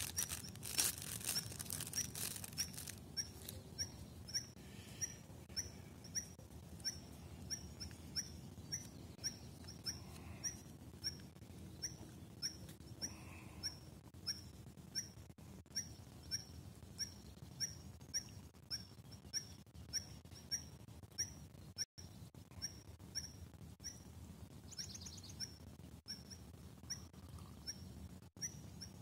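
A bird repeating one short, high chirp about twice a second, over and over. During the first few seconds a food wrapper crinkles as it is torn open.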